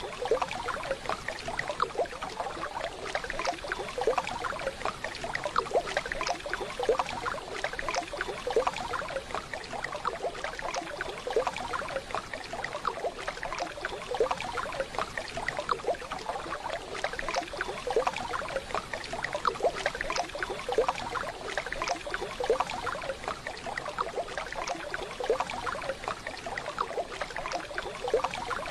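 Waterfall sound: running water with a steady hiss and frequent small splashing gurgles.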